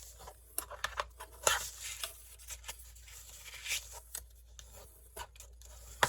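Stiff file-folder card being folded back and forth into accordion pleats by hand: bursts of papery rustling and scraping with scattered sharp ticks and taps.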